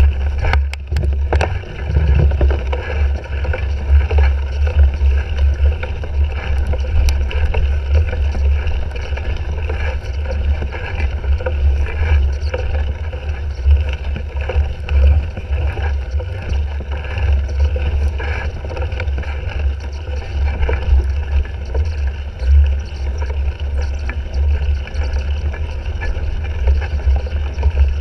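Continuous wind buffeting and rumble on a bike-mounted GoPro Hero 3 as a cyclocross bike is ridden at race pace, with scattered clicks and knocks from the bike over rough ground.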